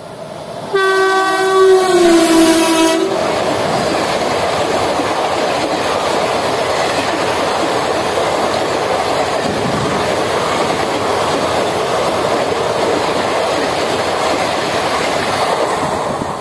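WAP7 electric locomotive sounding its horn for about two seconds as it approaches, the pitch dropping partway through, followed by the steady rush and clatter of its ICF coaches passing at speed. The noise fades as the end of the train goes by near the end.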